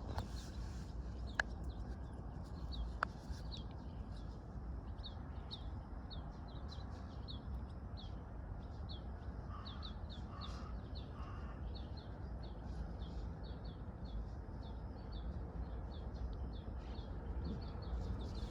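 A small bird chirping over and over, short high notes a few times a second, over a steady low background rumble. About ten seconds in come three short, lower calls.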